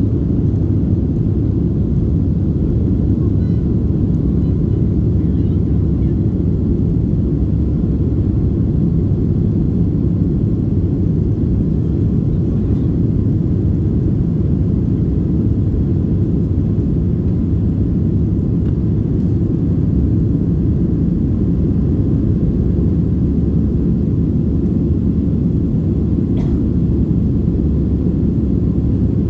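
Steady low rumble of a Boeing 737-600's cabin in flight: the drone of its CFM56-7B engines and airflow, even throughout.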